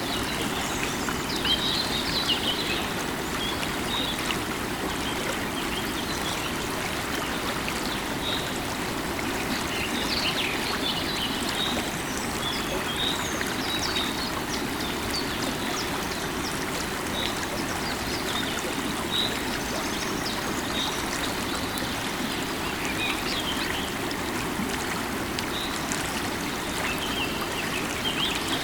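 Steady rushing of a flowing stream, with birds chirping in short, scattered calls over it.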